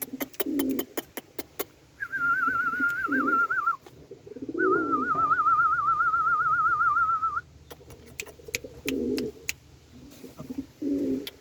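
Pigeons cooing, with scattered sharp clicks, over two long, high, wavering whines from a German shepherd puppy. The first whine lasts about two seconds, a couple of seconds in; the second, longer and louder, lasts about three seconds.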